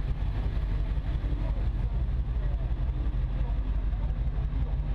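1966 Chevrolet Impala station wagon's engine running steadily at low speed, a deep, even rumble heard through a camera mounted on the car's outside.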